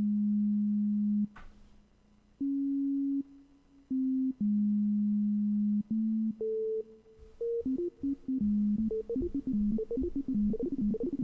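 Waldorf Iridium synthesizer playing a step-sequenced line on a plain init-patch tone. Long held notes give way, a little past halfway, to a quick run of short notes as the sequencer's step length (beat division) is shortened.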